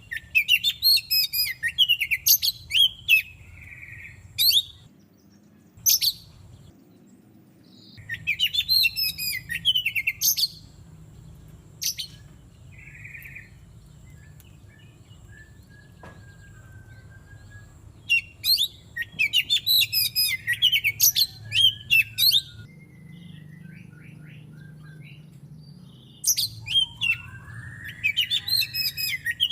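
Oriental magpie-robin (kacer) singing in bursts of rapid, varied chirping phrases separated by pauses of a few seconds. Single sharp notes and softer whistles fall in between, over a low steady hum.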